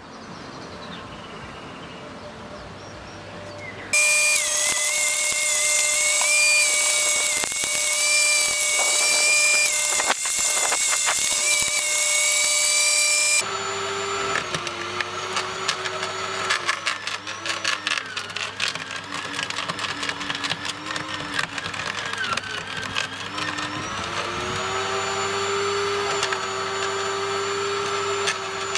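Mac Allister electric garden shredder running, a loud high whine starting suddenly about four seconds in. About halfway through it changes to crackling and chewing as branches are fed in, its tone dipping and rising with branch thickness.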